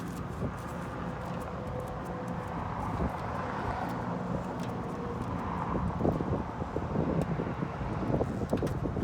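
Steady low hum and background noise, with a few faint light clicks and taps.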